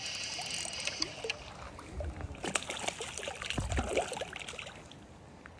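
Water splashing and dripping, with scattered clicks and knocks, most of them between about two and four and a half seconds in. A fishing reel's whirring winds down in the first second.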